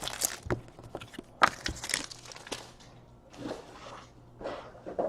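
Scattered light clicks and taps with faint rustling, from trading cards and their packaging being handled on a table.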